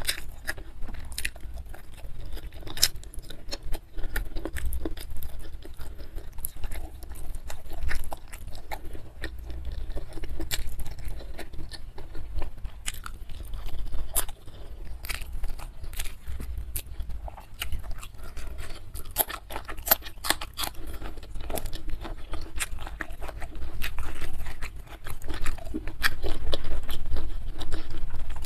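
Close-miked chewing of a mukbang meal of curried goat trotters, rice and raw vegetables: wet smacking mouth sounds with irregular clicks and crunches, a little louder near the end.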